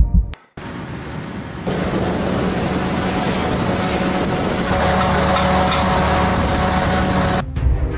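Jet aircraft engine noise: a steady rush that fills out a second or two in, with a faint whine joining about halfway through. It cuts off suddenly near the end.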